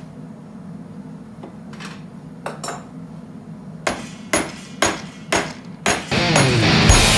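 Hand hammer striking hot 1018 mild steel stock clamped in a vise: a few light taps, then five heavy blows about two a second, each with a bright metallic ring, over a steady low hum. Rock music with electric guitar comes in near the end.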